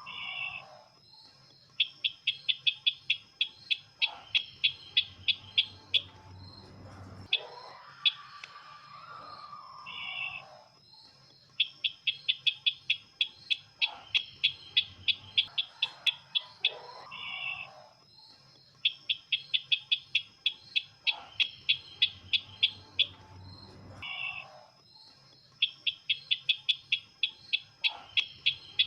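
Sisintar ladang bird call used for luring birds: runs of fast, sharp high chips, about four or five a second for some four seconds, alternating with a lower slurred whistled note, the pattern repeating over and over.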